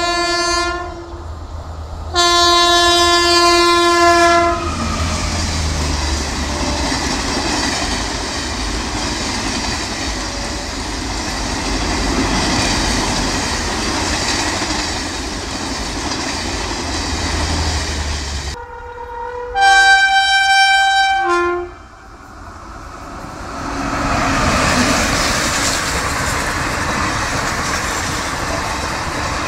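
Indian Railways WAP5 electric locomotive horn sounds in two blasts, the second dropping in pitch as the train passes at speed. Then comes the steady rush and rumble of passenger coaches going by. About two-thirds of the way in, another locomotive horn blows for about two seconds, followed by the rising noise of another train passing at speed.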